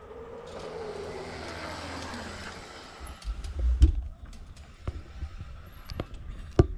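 A vehicle passing by, its sound falling steadily in pitch over about three seconds as it goes. Then low rumbling and scattered sharp knocks and rattles.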